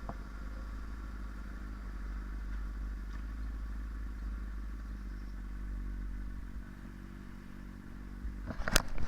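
Yamaha sport bike's inline-four engine running at a steady speed, with a low rumble. A few sharp knocks and clicks come near the end.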